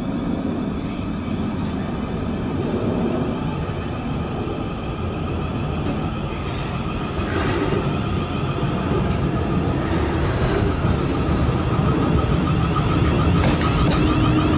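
Siemens Desiro Class 450 electric multiple unit running slowly into a terminus platform, a steady rumble of wheels and motors that grows louder as it draws near, with a few sharp clicks along the way.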